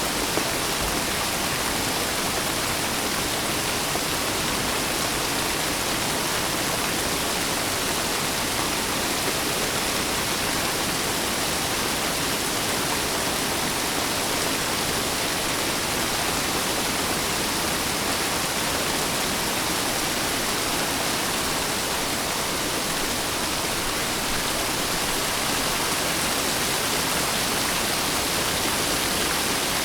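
Steady heavy rain, an even hiss of falling water that changes little.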